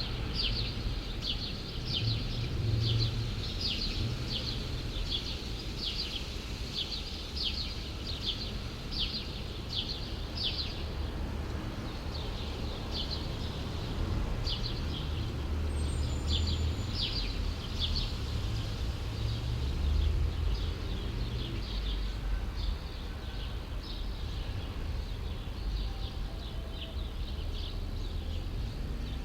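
Small birds chirping, short high calls about two a second that thin out and grow fainter in the second half, over a steady low rumble of distant city traffic.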